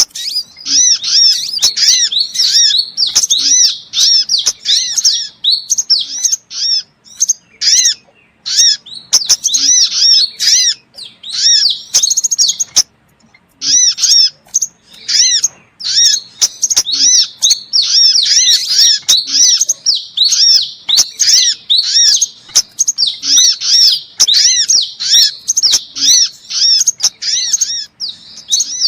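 Sunbirds calling in a lure recording: rapid, high-pitched chirping notes in dense runs, with sharp clicks among them and a brief pause about twelve seconds in.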